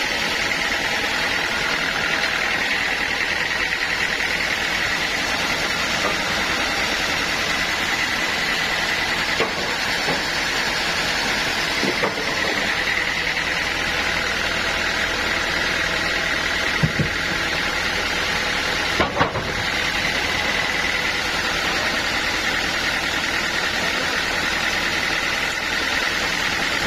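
Sawmill machinery running steadily, with a constant high whine, and a few short knocks scattered through it.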